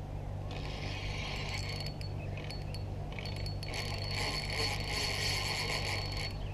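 Fishing reel drag buzzing as a hooked common carp runs and pulls line off the spool, in two spells: a short one about half a second in and a longer one from about three seconds to near the end.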